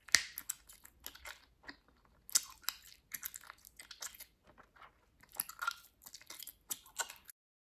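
Bubblegum being chewed, snapped and popped close to the microphone: an irregular run of wet smacks and sharp pops, the sharpest just after the start. It cuts off abruptly near the end.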